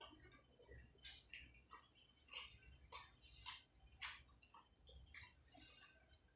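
Close-miked eating: soft, irregular wet mouth clicks and smacks of chewing rice and curry, two or three a second.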